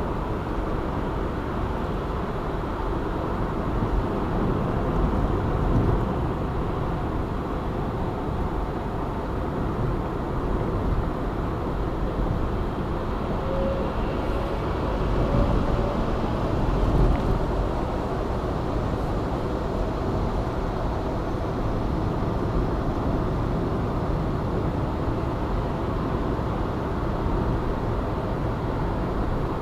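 Steady road noise of a car driving along a city motorway: tyre and engine noise, swelling a little now and then.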